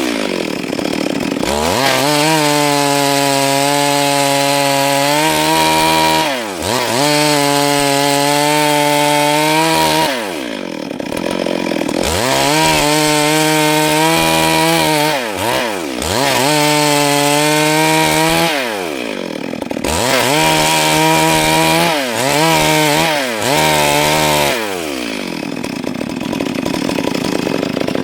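Stihl MS 382 two-stroke chainsaw sawing lengthwise through a Siris log. The engine holds a steady pitch for a few seconds at a time under load, then swings quickly up and down in pitch several times as the revs change.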